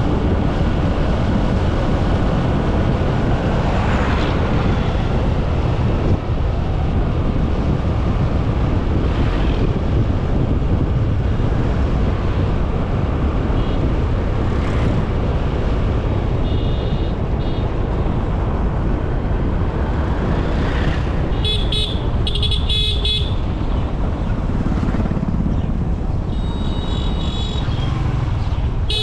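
Steady road traffic noise, with a vehicle horn giving a few short honks a little past the middle and fainter toots near the end.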